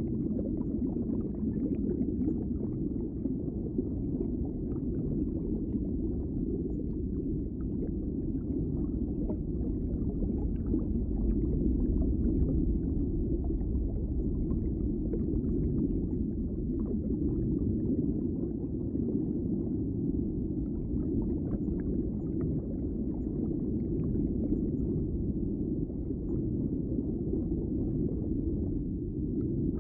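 Underwater ambience: a steady, muffled low rumble of water, with faint scattered clicks and crackles over it.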